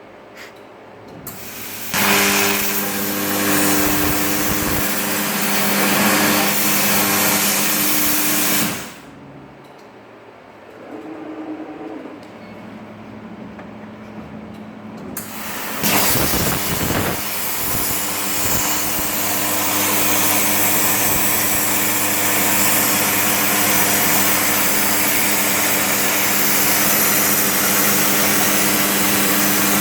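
80 A Migatronic plasma cutter cutting 12 mm steel on a CNC table. The arc is a loud hiss with a steady low hum. It fires about two seconds in, cuts off near nine seconds, and fires again around sixteen seconds and runs on. Quieter machine noise fills the gap between the cuts.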